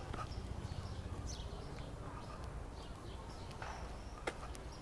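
Park ambience: small birds chirping in short, high calls over a steady low city rumble, with one sharp click about four seconds in.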